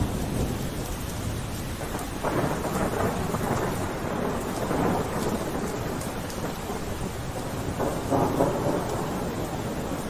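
Steady rain with a low rumble underneath. The rumble swells about two seconds in and again near the end.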